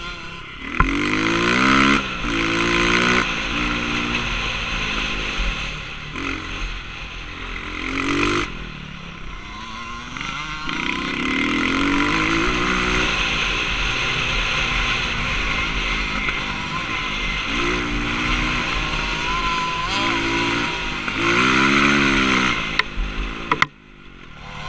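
Honda CRF230 dirt bike's single-cylinder four-stroke engine being ridden hard, revving up and falling back over and over as the rider accelerates and shifts, with a brief drop-off near the end.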